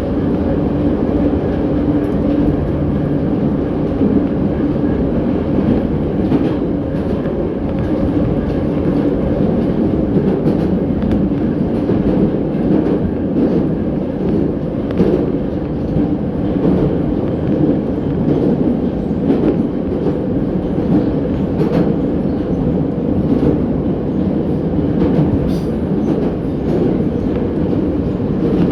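81-717.6 metro train running at speed between stations: a steady rumble with scattered short clicks from the wheels.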